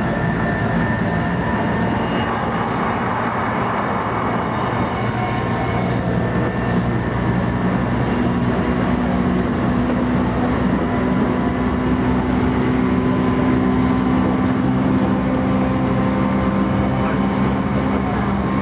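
Cabin noise of a JR East E233-3000 series electric train running at speed: steady rumble of wheels on rail with a hum of several steady motor tones, one more joining about eight seconds in.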